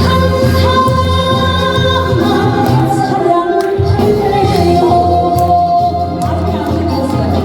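Live trot song played through a PA: a woman singing a held, gliding melody over a backing track with a steady bass beat.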